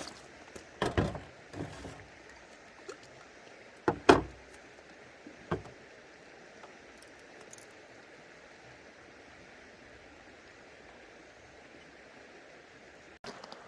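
A creek running steadily in the background. Several sharp knocks and clatters from things being handled come in the first six seconds, the loudest about four seconds in.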